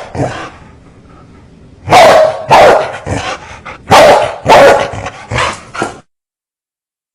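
Fierce dogs barking in loud, sharp barks: one just after the start, then a quick run of about eight barks from two seconds in. The sound cuts off abruptly to dead silence about six seconds in.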